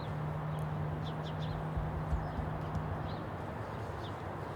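Small birds chirping, repeated short calls over a steady outdoor background, with a steady low hum that fades out about three seconds in.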